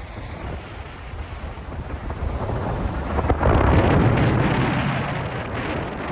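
Strong cyclone wind buffeting the microphone with a low rumble. A gust swells about three seconds in, then slowly eases.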